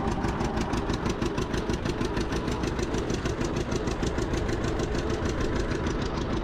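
Two-cylinder John Deere tractor engine running steadily with a rapid, even firing beat.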